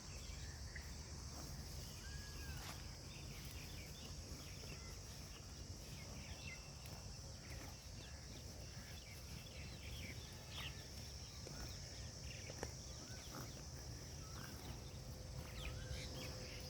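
Steady high-pitched insect chorus with scattered short bird chirps over a low steady rumble.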